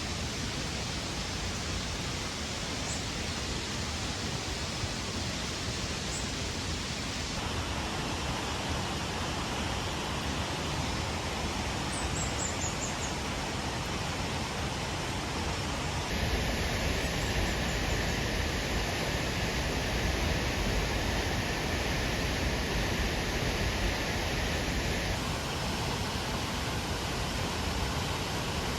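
Heavy rain falling steadily as an even hiss, its tone shifting abruptly a few times, with a few faint high chirps about twelve seconds in.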